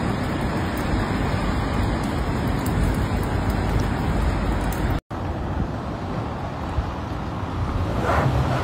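Steady noise of road traffic, cut off abruptly for an instant about five seconds in and then resuming.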